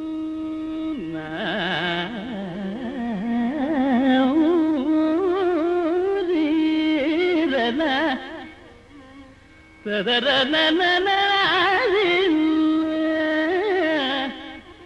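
Carnatic music in raga Mohanam: a melody opens on a long held note, then moves through phrases with wide, wavering oscillations around the notes. It pauses briefly twice.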